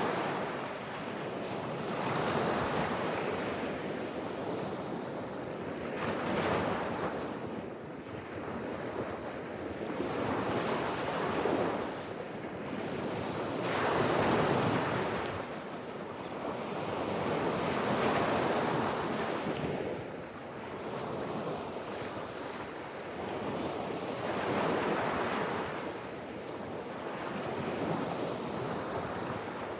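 Pacific Ocean surf: waves breaking and washing up the shore one after another, the rushing sound rising and falling in a steady rhythm every few seconds.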